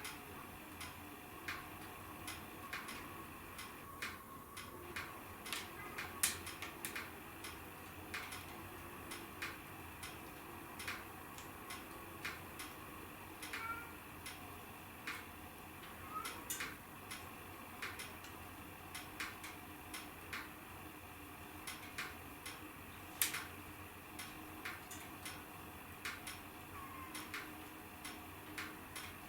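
Wood fire crackling in a fireplace: irregular pops and snaps throughout, with a few louder snaps about six seconds in and again near the end.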